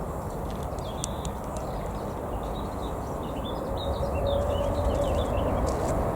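Distant jet aircraft rumbling, growing louder about two-thirds of the way through with a faint engine tone coming in. Small birds chirp over it.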